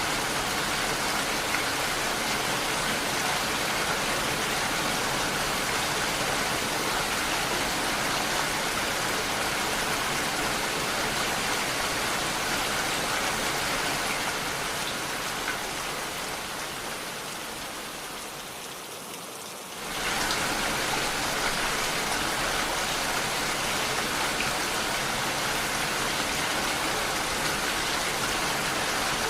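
Steady rain falling, an even hiss of drops. About two-thirds of the way through it fades down for a few seconds, then cuts back in suddenly at full level.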